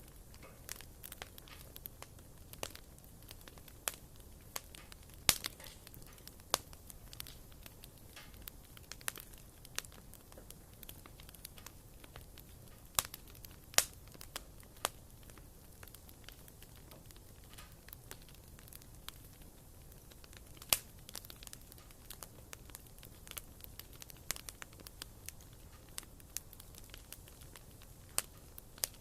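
Wood fire burning in a fireplace: irregular crackles and sharp pops from the burning firewood over a faint hiss, with a few louder pops scattered through.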